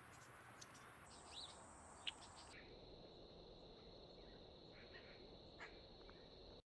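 Faint backyard ambience with scattered short bird chirps, the sharpest about two seconds in, and a steady high insect drone from about two and a half seconds on.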